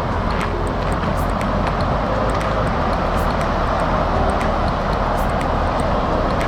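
Loud, steady rush of river water pouring over the Feather River fish barrier dam.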